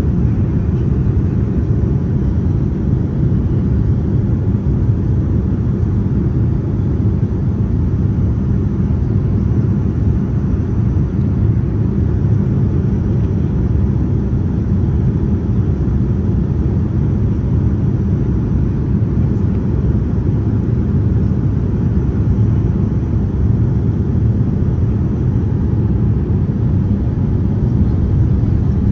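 Steady low rumble inside the cabin of a Boeing 787-9 in flight: engine and airflow noise, unchanging throughout.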